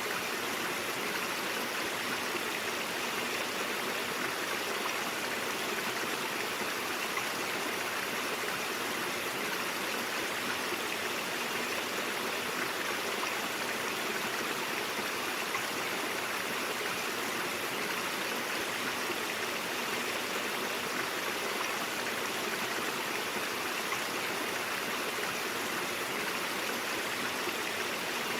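Mountain brook flowing steadily, an even rushing and burbling of water over rocks without a break.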